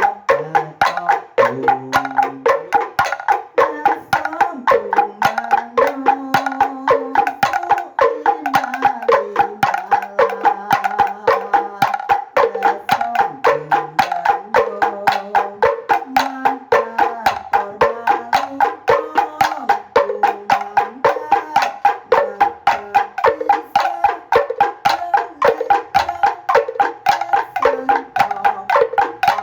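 Javanese kenthongan ensemble of wooden and bamboo slit drums played in a fast, even interlocking rhythm, about four or five strikes a second, with a lower tuned part stepping between a few notes.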